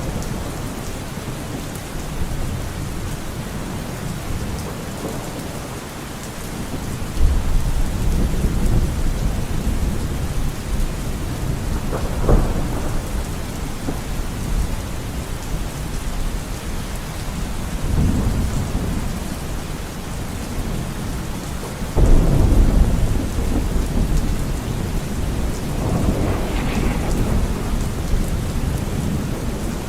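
Steady rain in a forest, with low rolls of thunder rumbling through it several times. The loudest roll breaks in suddenly about two-thirds of the way through.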